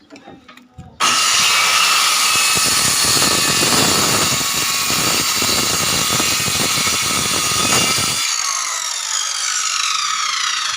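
Circular saw starting up about a second in and cutting through wood for about seven seconds. Then the cut ends and the spinning blade winds down with a falling whine.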